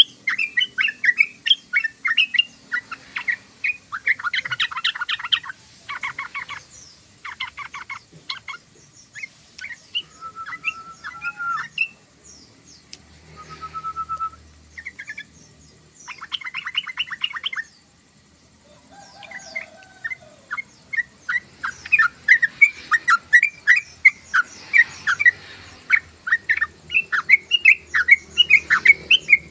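Yellow-vented bulbul (trucukan) singing a fast chattering song, broken by bursts of dry rattling trills and a few short whistled notes; the chatter grows dense in the last third.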